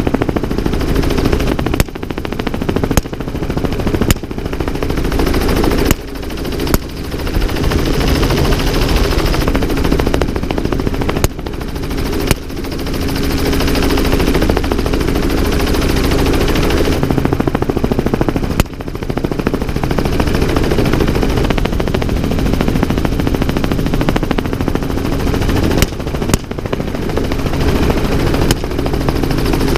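About a dozen gunshots fired from a helicopter, irregularly spaced and some in quick pairs, over the helicopter's steady rotor and engine noise.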